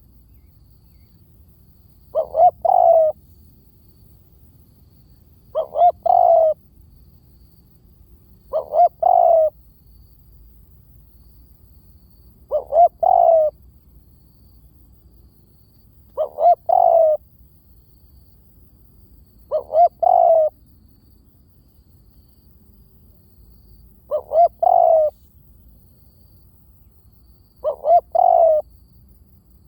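Spotted dove cooing: a phrase of two short coos running into a longer coo, repeated about every three and a half seconds, eight times. It is a decoy call used to lure spotted doves.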